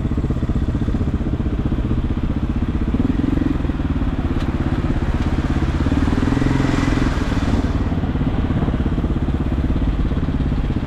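Regulmoto TE enduro motorcycle engine running at a steady pitch, with a swell of hissing noise for a couple of seconds in the middle.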